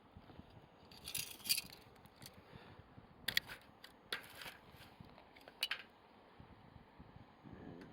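Wood fire crackling: scattered sharp snaps and pops over a faint hiss, with the busiest cluster about a second and a half in.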